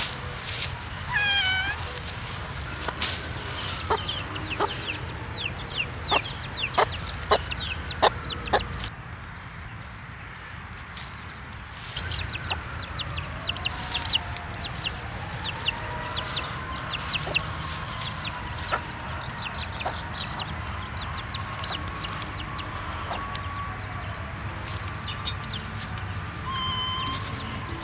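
Baby chicks peeping in quick runs of short, high chirps, with clucking calls from the flock. A few sharp knocks come in the first third.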